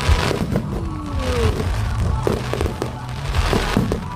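Fireworks going off: an irregular series of sharp bangs and crackles.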